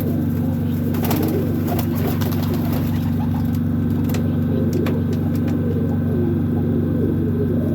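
Doves cooing over a steady, loud low hum, with a cluster of sharp clicks in the first half.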